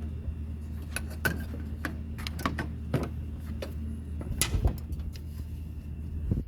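Car engine idling with a steady low hum, with scattered sharp clicks and knocks over it.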